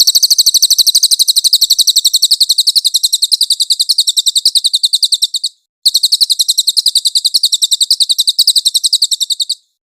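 Cililin bird singing: a loud, very rapid high-pitched trill of more than ten notes a second, in two long runs with a short break between them about halfway through.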